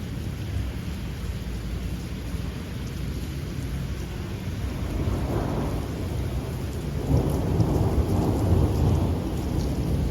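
Thunderstorm: steady rain with low rolling thunder, which swells about five seconds in and grows loudest a couple of seconds later before easing off near the end.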